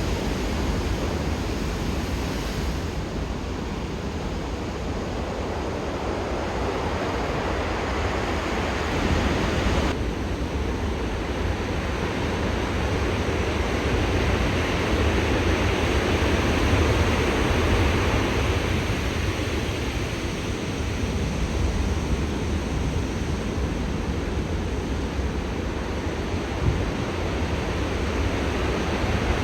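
Heavy ocean swell from a distant typhoon breaking as surf: a steady rushing of water with a strong low rumble and wind on the microphone. The sound shifts abruptly about 3 and 10 seconds in.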